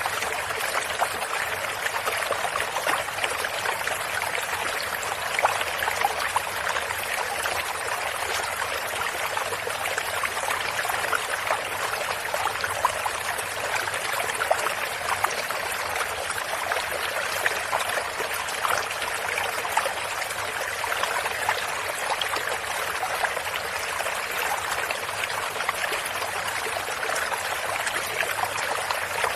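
A stream running steadily, with fine trickling and splashing water.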